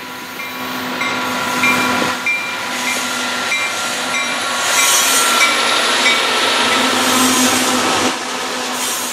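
Freight diesel locomotives of CN and CSX rolling past close by, getting louder as they arrive about four seconds in, with steady engine drone and wheels on the rail. A bell rings in a steady rhythm, a bit under twice a second, until about six seconds in.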